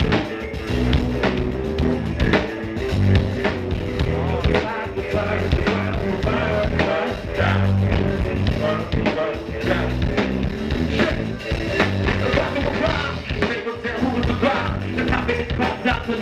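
Live band playing a loud, steady rock groove with bass and guitar, without rapped vocals.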